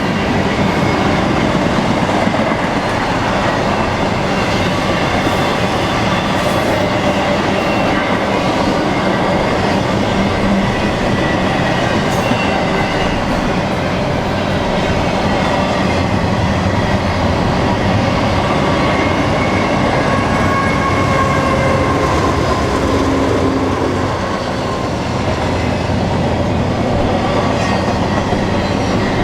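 BNSF intermodal freight train rolling past: a steady, loud rumble of steel wheels on rail, with faint wheel squeal. The mid-train distributed-power locomotives go by about halfway through.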